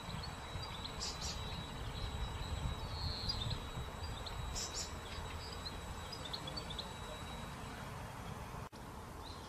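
Outdoor ambience: a low, even rumble with a few short, faint bird chirps scattered through it. The sound briefly cuts out near the end.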